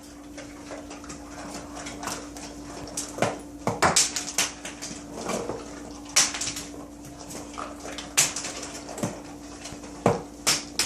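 Irregular clatter of sharp knocks and clinks, like hard objects or dishes being knocked about, over a steady low hum.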